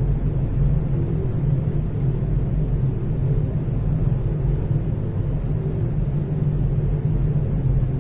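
Room tone of a large hallway dominated by ventilation: a steady low rumble and hum of air handling, with no distinct events.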